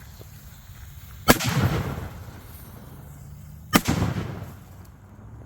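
Two firework bangs about two and a half seconds apart, set off in a burning brush pile, each trailing off over about a second.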